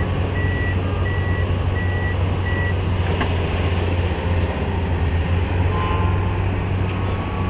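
Heavy diesel engines of a Komatsu PC850 excavator and a Hino dump truck running with a steady low rumble. A high-pitched backup alarm beeps about once every 0.7 s for the first few seconds, then stops, and a single knock follows.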